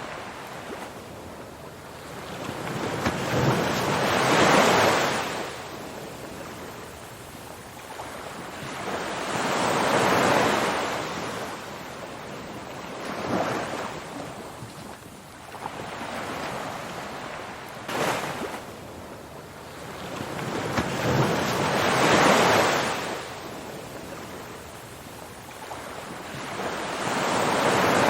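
Ocean surf: waves washing in and drawing back in slow swells every few seconds, a steady rush of water between them.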